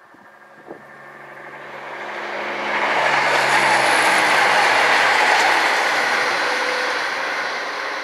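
Class 170 Turbostar diesel multiple unit passing. Its engine hum builds as it comes closer, becomes a loud rush of wheel and engine noise about three seconds in, then slowly fades as it draws away.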